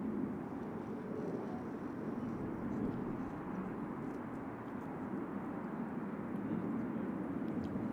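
Jet engine noise from Blue Angels F/A-18 Super Hornets in flight: a steady, even rumble that neither rises nor falls much.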